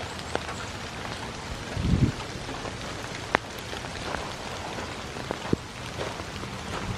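Steady rain falling, with scattered sharp drop ticks and one short low thump about two seconds in.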